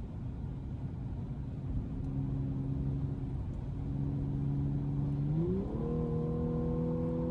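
2012 Audi S5's 3.0-litre supercharged V6 running at a steady cruise, then about five seconds in the revs climb quickly and keep rising slowly as the car accelerates.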